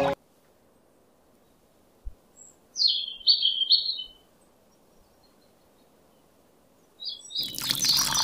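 A bird chirps in a quick run of short high notes about three seconds in, just after a soft knock. Near the end, water pours from a small steel cup into a toy trough, splashing steadily.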